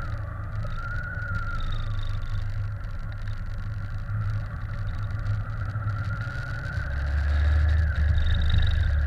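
Riding noise from a moving bike: a steady whine that drops in pitch and slows about a second in, then climbs again from about six seconds in, over a heavy low wind rumble on the microphone.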